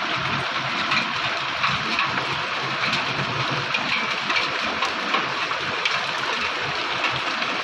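Heavy rain falling with hailstones: a steady rushing hiss with scattered sharp ticks of hail striking.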